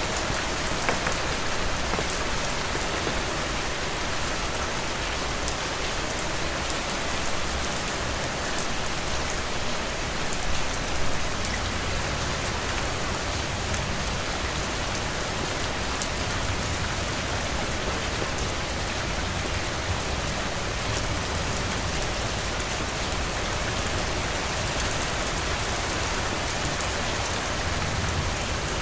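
Heavy rain falling steadily, a dense even patter of drops on a roof, with a low rumble beneath.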